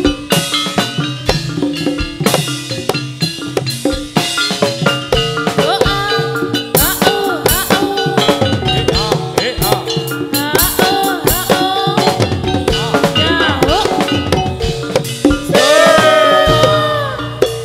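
Live music from a Javanese folk-dance ensemble: drums beating a dense, rapid rhythm under steady mallet-percussion tones, with a gliding melody line above them.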